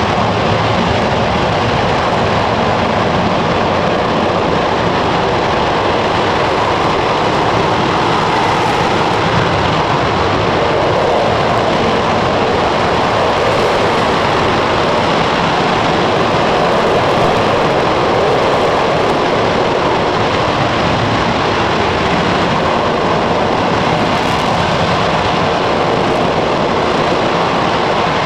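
An RS-25 liquid-hydrogen/liquid-oxygen rocket engine firing on a test stand, giving a loud, steady rushing noise without a break during a full-duration hot fire.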